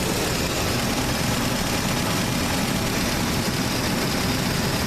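Chevrolet small-block 350 V8 idling steadily.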